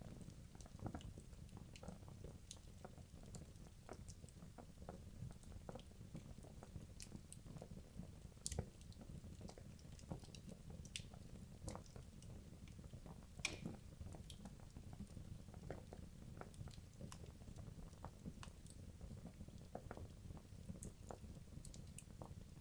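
Wood logs burning in a fireplace: a low steady rumble of flame with scattered sharp crackles and pops, two louder pops about 8.5 and 13.5 seconds in.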